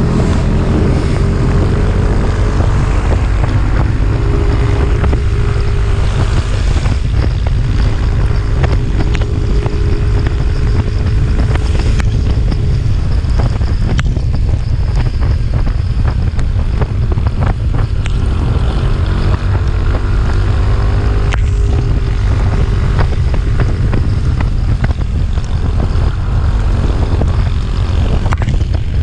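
Motorcycle engine running steadily on a climb, under heavy wind buffeting on the microphone, with scattered small clicks.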